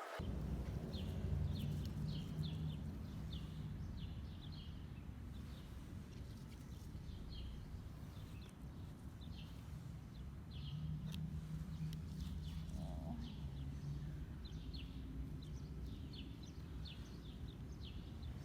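Outdoor ambience: small birds chirping over and over in short, high chirps above a steady low rumble.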